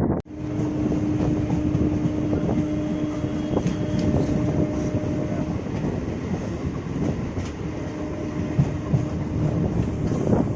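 EMU electric local train running along the line: a steady rumble of wheels on rail with a low, steady hum over it through the first half.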